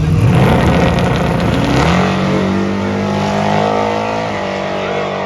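Car engine revving hard as the car accelerates away. Its pitch rises for about two seconds, then holds a steady high note that eases a little near the end.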